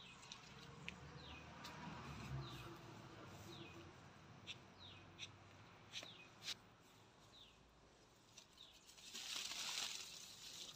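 Faint chirping of small birds: short falling notes repeated irregularly, with a few light clicks. Near the end a soft rustling hiss swells up and fades.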